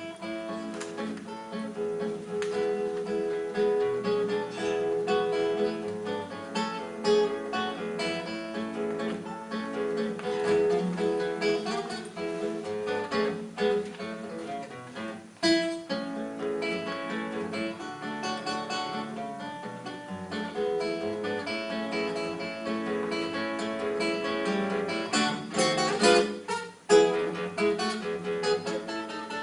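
Acoustic guitar music, plucked and strummed, with a steady run of chords and single notes.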